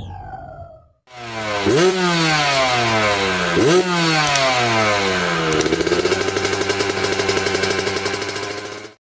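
Motocross bike engine revving: two quick throttle blips, each falling away in pitch, then the revs sinking and climbing slowly again.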